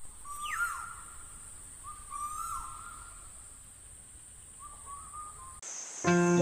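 A bird calling in three short phrases over a steady high-pitched insect buzz. Music comes in near the end.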